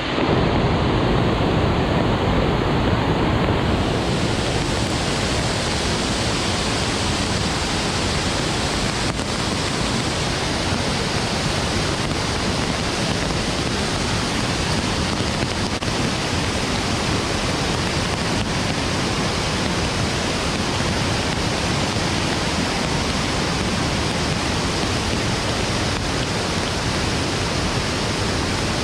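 Steady, even rush of water in flood-rain conditions, with no breaks or separate drops, drips or strokes.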